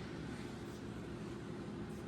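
De Tomaso Guarà engine idling steadily just after a cold start.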